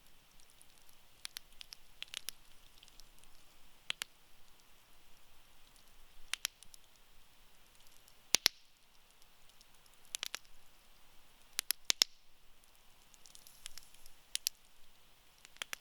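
Wood fire crackling in a campfire pit: irregular sharp pops and snaps, some in quick pairs or clusters, over a soft hiss of burning embers.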